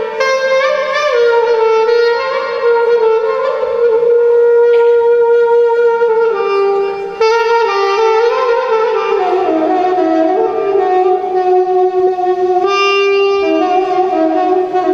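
Turkish classical music ensemble playing an instrumental passage with no singing: a wind instrument carries a slow melody of long held notes that slide from one pitch to the next.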